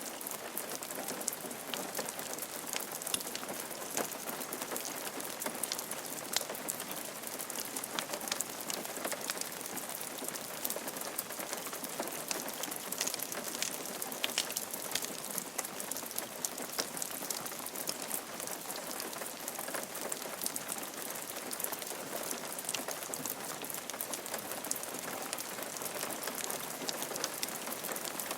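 Steady rain falling on a roof, with many separate drops tapping through an even hiss.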